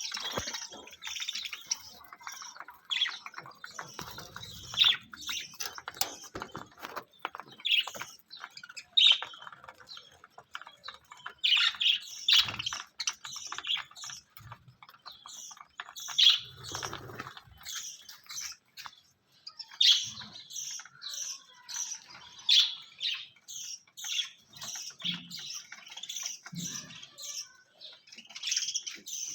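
Small birds chirping and cheeping in quick, overlapping calls, with a few soft low bumps.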